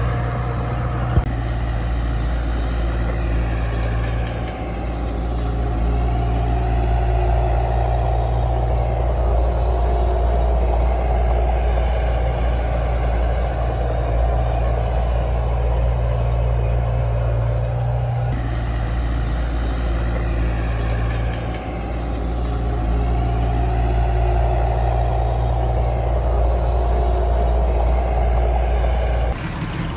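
Heavy diesel engine of earthmoving machinery running steadily, with brief dips and rises in load.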